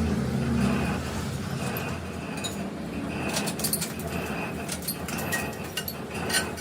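Workshop machinery running with a steady low hum. Scattered light metallic clicks and ticks come in over the second half.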